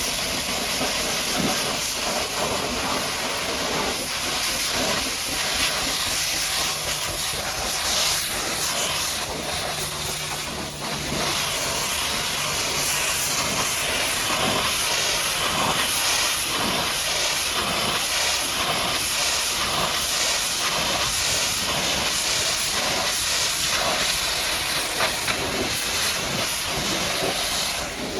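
High-pressure washer jet spraying a muddy truck, a steady hiss of water whose texture shifts as the spray moves across the surface.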